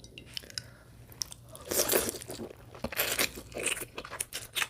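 A person chewing and biting into soft imitation crab (surimi snow-leg sticks), with wet mouth sounds in several short bursts.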